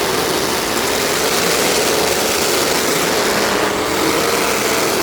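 Derby trucks' engines running steadily, a loud, even engine noise with a steady drone and no crashes or impacts.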